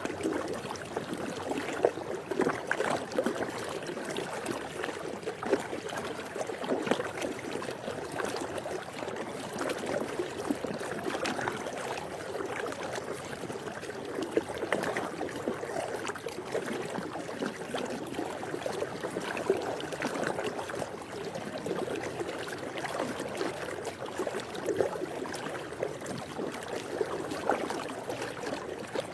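Swimming pool water lapping, a steady wash of moving water broken by small irregular splashes.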